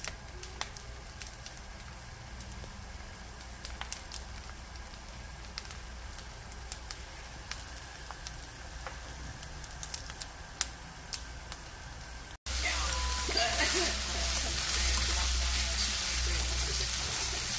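Rice-paper-wrapped eggplant frying in oil in a pan, with scattered small crackles and pops. About twelve seconds in it cuts to a louder, denser sizzle.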